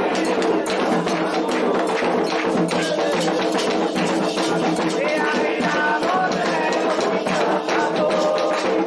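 Candomblé ritual music: hand drums and struck percussion playing a fast, dense rhythm, with voices singing over it.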